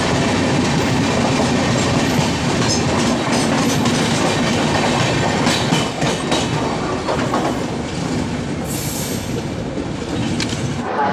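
Passenger train running along the track: steady rumble of coach wheels on the rails, with a run of sharp clattering clicks over rail joints in the middle and a short high hiss about nine seconds in.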